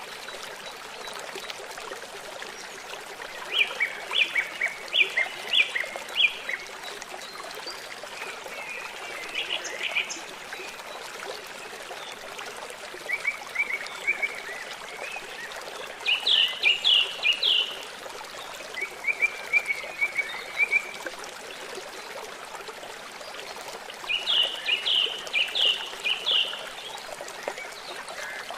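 Steady rush of flowing river water with a bird calling over it, repeating a short phrase of five or six quick high notes every few seconds.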